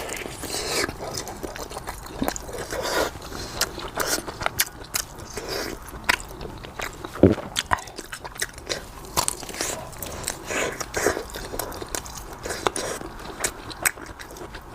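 Close-up chewing and biting: irregular wet mouth clicks and smacks of someone eating a chunky pork sausage.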